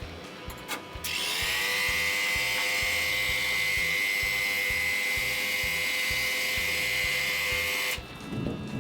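A small electric motor-driven tool running steadily with a high whine. It spins up about a second in and cuts off suddenly near the end.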